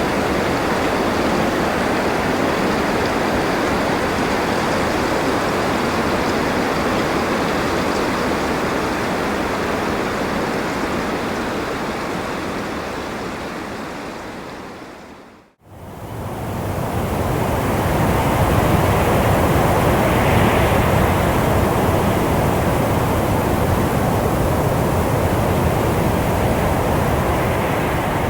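Steady rushing wind noise. About fifteen seconds in it fades out to a brief silence, then fades straight back in, slightly fuller, with a gentle swell a few seconds later.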